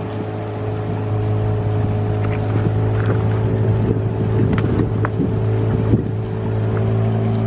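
Motorboat engine running steadily at a constant pitch, with two sharp clicks about halfway through.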